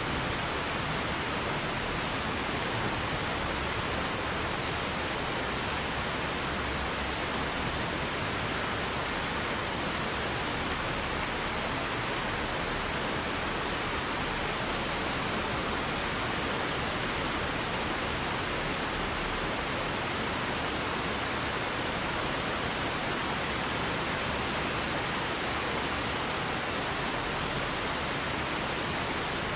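Heavy rain falling: a steady, even hiss with no breaks, single drops or thunder standing out.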